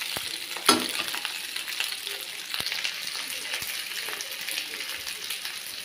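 Pieces of rice fara sizzling in hot oil in a metal kadhai, being turned with a metal spatula that clinks against the pan a few times.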